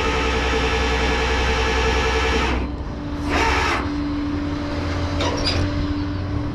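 Flatbed tow truck's winch running as the car is pulled onto the bed: a steady mechanical whine that cuts off about two and a half seconds in, a short burst of noise a second later, then a lower steady hum.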